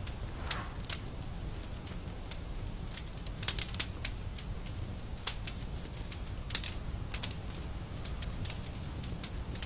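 Wood fire crackling in a fireplace: irregular sharp pops and snaps over a steady low rumble, with a few louder pops in the middle.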